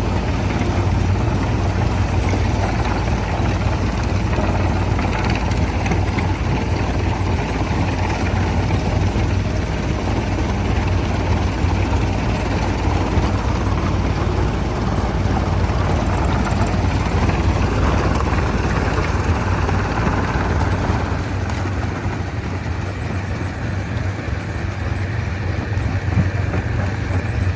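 Stone crusher machinery running steadily: a heavy, continuous low engine hum under a broad rushing mechanical noise, dipping slightly in level a little past the middle.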